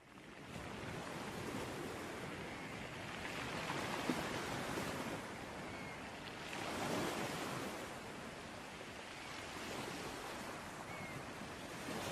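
Ocean surf washing ashore, fading in from silence at the start, then swelling and easing in slow surges.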